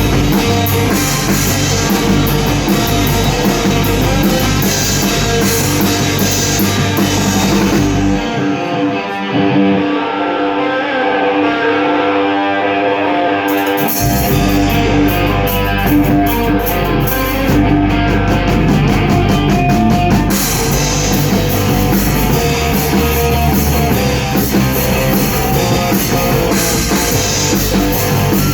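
Rock band playing: guitar, bass and drum kit. About eight seconds in, the drums and low end drop out, leaving the guitar alone for roughly six seconds, then the full band comes back in.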